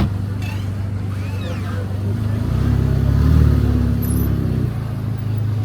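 Engine running with a steady low hum that swells louder for about two seconds in the middle, then drops back.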